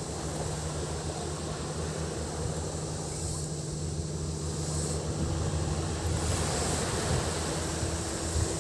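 Waves washing onto a sandy beach, with cicadas keeping up a steady high drone that grows louder about six seconds in, over a low steady hum.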